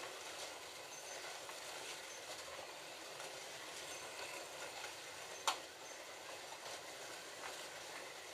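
Several slot cars racing round a Scalextric track, their small electric motors giving a steady whir. A single sharp click comes about five and a half seconds in.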